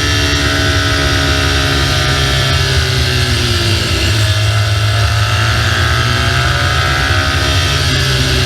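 BMW R1200GS boxer-twin engine running under way, buried in steady wind and road noise. The engine note dips about four seconds in and climbs again.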